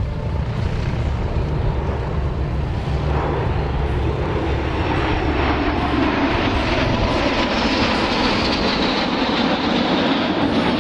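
Airplane engine sound at an airshow, a steady low drone with a rushing noise that builds through the second half as the aircraft comes closer.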